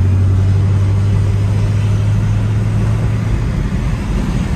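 Chevrolet Camaro SS V8 exhaust droning steadily at highway cruise, heard from inside the car over tyre and road noise. The drone eases off about three seconds in.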